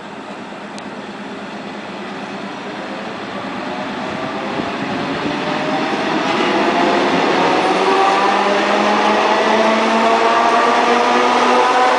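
Suburban electric train (elektrichka) accelerating, its traction motors whining in several tones that climb steadily in pitch over the rumble of the cars, growing louder throughout.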